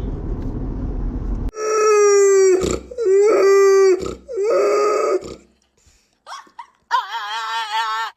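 Dogs howling: three long howls of about a second each, a short pause, then a wavering howl near the end. For the first second and a half there is a low car-cabin rumble, which cuts off suddenly.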